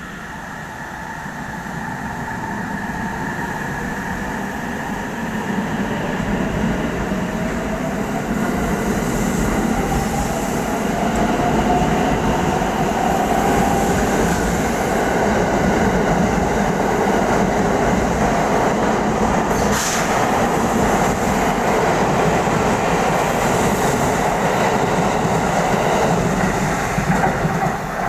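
Electric train running through the station, growing louder over the first dozen seconds and then holding steady, with its motor whine slowly rising in pitch over the rumble of the wheels on the rails.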